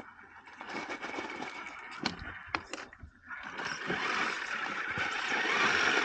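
Radio-controlled crawler truck driving over rough ground: the drivetrain runs while the tyres scrape over rock and dirt, with a few sharp knocks about two to three seconds in.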